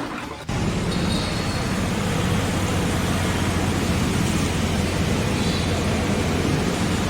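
Steady mechanical drone with a low hum under an even rushing noise, like a motor running, starting abruptly about half a second in.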